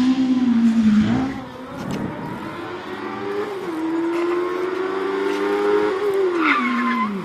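Smart Fortwo's swapped-in Kawasaki Ninja motorcycle engine revving hard. Its pitch drops as it lifts off about a second in, climbs again and holds high for a couple of seconds, then falls near the end.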